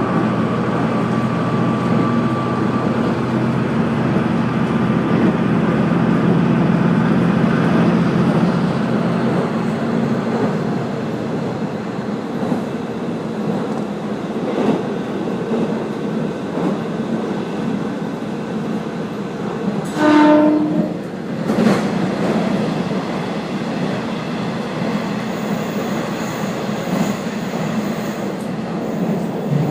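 Kazekko diesel railcar running along the line, heard from on board: a steady rumble of engine and wheels, with the engine note easing off after the first several seconds. About two-thirds of the way through comes a short horn note lasting about a second, then a single sharp knock.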